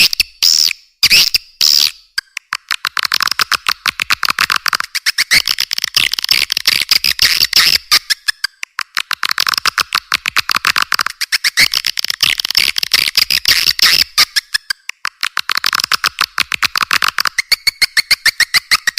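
Swiftlet lure call playing: long bursts of very rapid, high twittering chirps with short breaks between them, thin and with no low end.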